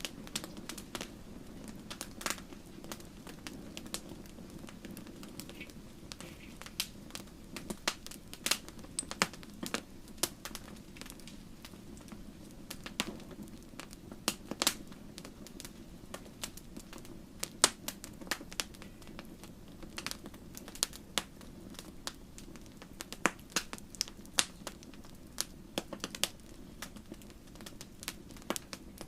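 Wood fire burning in a fireplace: a steady low rumble of flames with irregular sharp crackles and pops, a few of them louder snaps.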